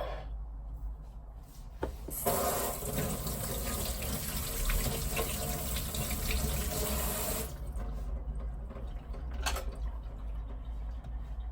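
Water running, like a tap into a sink, for about five seconds before stopping, over a low steady rumble.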